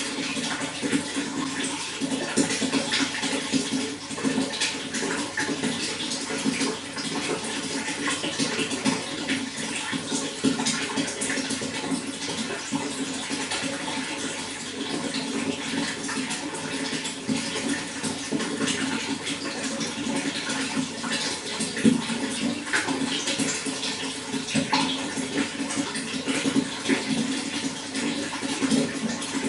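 Running water flowing steadily, a continuous burbling and splashing full of small crackles.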